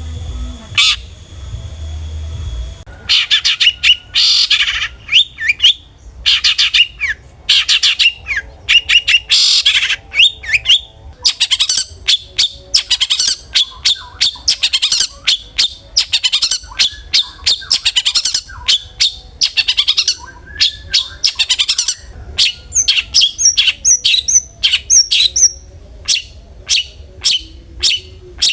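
Long-tailed shrike (cendet) calling hard, in dense runs of short, harsh, rapidly repeated notes. This is the agitated, fired-up calling used as a lure to provoke another cendet. It starts about three seconds in, after a steady high tone, and a few rising whistled notes come near the end.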